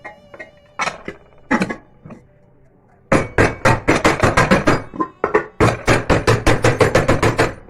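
Hammer blows on metal. A few separate strikes come first, then a fast run of about five blows a second from about three seconds in until near the end.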